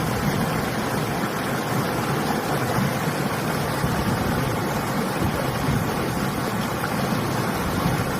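River water flowing steadily, with winter wind blowing over the microphone.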